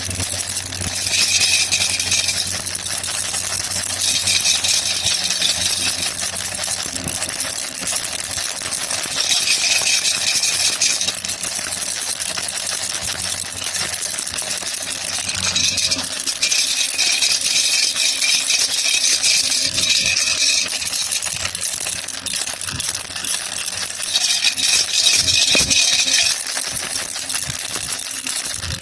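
Baby rattle (jhunjhuna) shaken without a break, its beads clattering, with spells of harder shaking a few seconds long, five times over.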